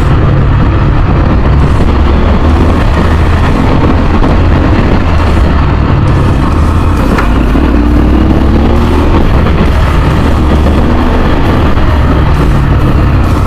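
Motorcycle on the move, its engine running under a loud, steady wind rumble buffeting the action-camera microphone.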